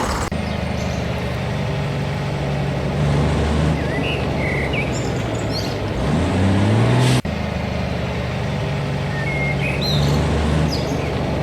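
A vehicle engine running steadily at a low pitch. About six seconds in it revs up, rising in pitch, then breaks off abruptly and resumes at the same steady running. Birds chirp here and there over it.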